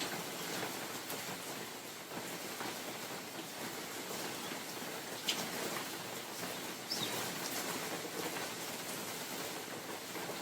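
Rain falling in a forest with wind: a steady hiss with scattered louder drops, one sharp drop about five seconds in.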